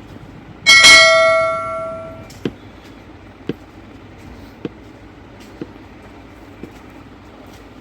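A metal object strikes something hard with one loud ringing clang that dies away over about a second and a half, followed by faint ticks about once a second.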